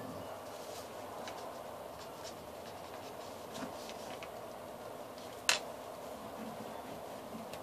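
Faint crinkles and taps of paper and foil being bent by hand, over a steady background hum, with one sharp click about five and a half seconds in.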